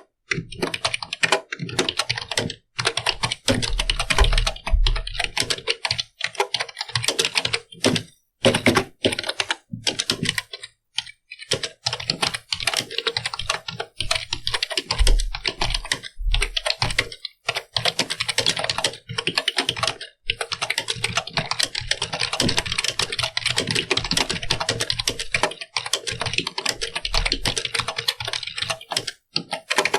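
Computer keyboard being typed on in fast, continuous runs of key clicks, with a couple of brief pauses and a few heavier low thuds among the keystrokes.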